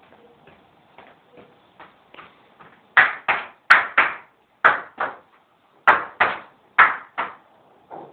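A series of sharp knocks or bangs, about ten strikes in pairs a third of a second apart, starting about three seconds in; fainter taps come before them.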